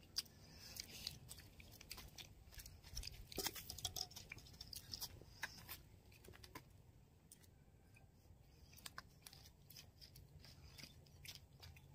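Faint chewing and small, irregular mouth clicks of people eating peeled boiled eggs, almost silent between the clicks.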